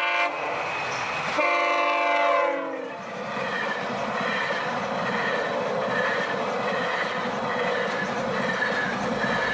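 GO Transit commuter train sounds its horn once for about a second, the pitch dropping as it fades. It then passes over the level crossing with a steady rumble and a regular clacking of the wheels, heard from inside a car.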